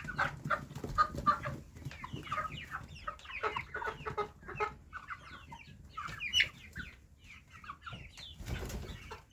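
Many baby chicks peeping at once, a busy overlapping chorus of short, slightly falling cheeps, with a brief rush of noise near the end.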